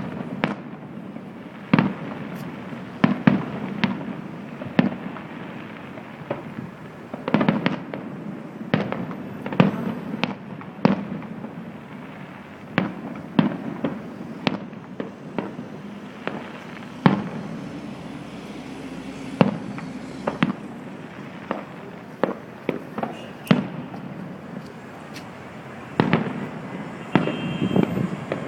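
Aerial fireworks shells bursting in an irregular run of bangs, each trailing an echo, coming thickest near the end.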